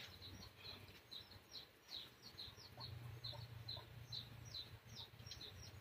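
Faint bird chirping: a quick run of short, high, falling chirps, about three or four a second, with a low hum coming in about halfway through.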